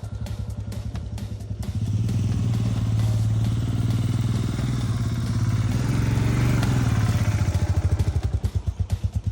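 A motor vehicle's engine running with a fast, even pulse. It grows louder about two seconds in and eases off near the end.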